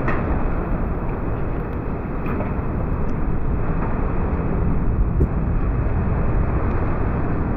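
Strong wind buffeting a car as it drives through a tornado's winds, a steady low rumble of wind and road noise with a few light ticks of hail or debris striking.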